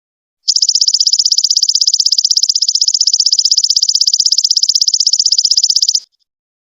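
Belalang emas ('golden locust') insect song: a loud, high-pitched trill of rapid, even pulses that starts about half a second in and cuts off suddenly about six seconds in.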